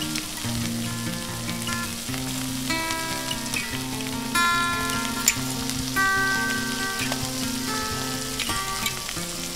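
Pork belly and aged kimchi sizzling in rendered pork fat on a hot griddle: a steady frying hiss with scattered sharp pops. Background music plays underneath.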